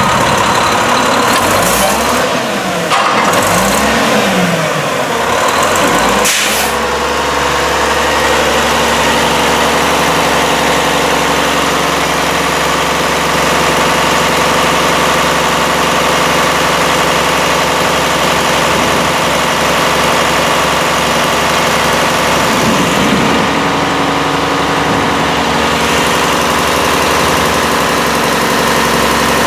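Garbage truck engine revving up and back down twice, then running steadily after a sudden change about six seconds in. It changes pitch briefly once more about three quarters of the way through.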